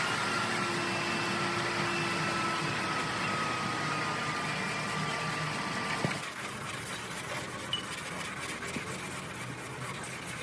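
A car engine running steadily, with a faint whine that falls slowly in pitch; about six seconds in it gives way abruptly to a quieter, steady background noise.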